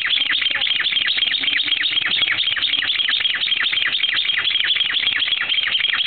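A bird giving one long call: a rapid, unbroken series of short downward-sliding chirps, many a second, kept up without a pause.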